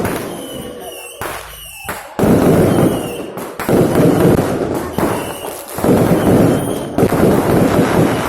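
Fireworks going off in quick succession: sudden bangs about every second or so, each trailing off in a long rumble.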